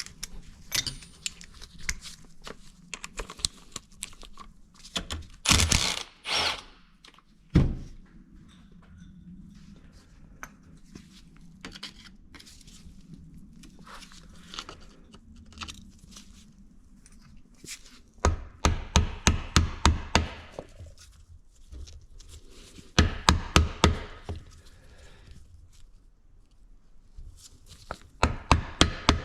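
Impact driver on the engine case's 10 mm bolts, hammering in three short bursts of rapid, evenly spaced knocks. Scattered clinks and a sharp knock from tools and parts come earlier.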